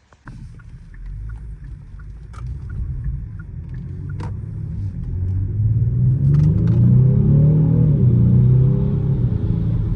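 2019 Genesis G70's 3.3-litre twin-turbo V6 pulling hard under acceleration, its rumble getting louder and its note rising, loudest about seven seconds in.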